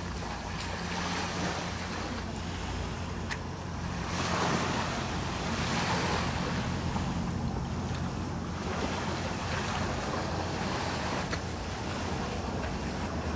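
Ocean surf breaking and washing ashore, with wind on the microphone. The surf swells louder about four to seven seconds in.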